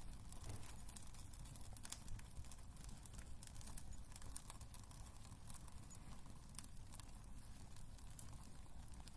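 Wood fire crackling in a fireplace: irregular small pops and snaps over a steady low rumble, with one sharper pop about two seconds in.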